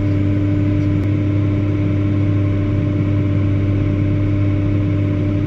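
Versatile 2375 four-wheel-drive tractor's diesel engine running steadily under load, pulling a dirt-moving dozer blade, heard from inside the cab as a constant low drone with a steady hum above it.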